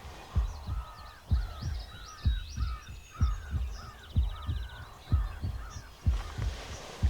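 A crow cawing in a quick series of about nine caws, over low thumps that come in pairs about once a second.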